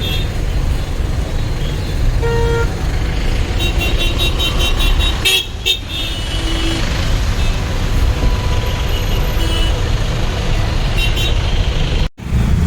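Road traffic with a steady low rumble, and several vehicle horns honking: one lower horn briefly about two seconds in, then quick high-pitched beeping around four seconds in and again near the end.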